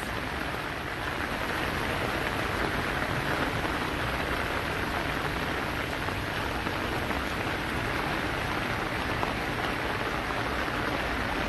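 Steady rain falling on a flooded street, an even, unbroken hiss.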